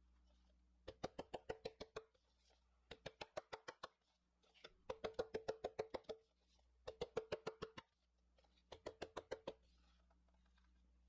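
Baking tray of piped macaron shells being tapped in quick succession, five bursts of about a second each at roughly eight to ten knocks a second, each knock with a short metallic ring; the tapping knocks air bubbles out of the piped batter.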